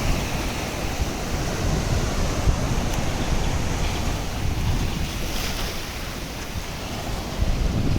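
Sea waves washing on the shore, with wind buffeting the microphone in an uneven low rumble.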